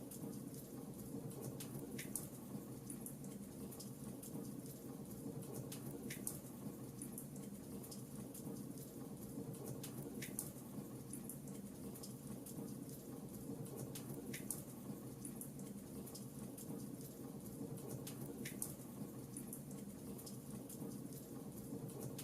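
Fireplace fire crackling steadily and softly, with a sharper pop about every four seconds.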